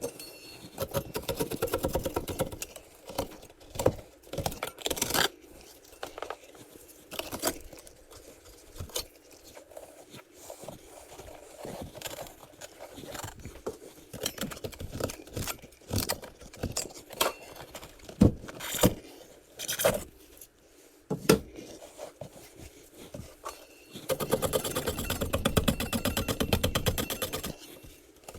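Scraping, knocks and sharp taps on a hardened perlite-mix casting as it is chipped at and its form pieces are worked loose. There are two longer spells of rapid scraping, one near the start and one near the end.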